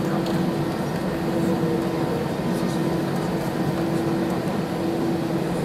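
Steady cabin noise inside an Airbus A319 airliner: an even hum of the engines and air system, with a constant mid-pitched tone running through it.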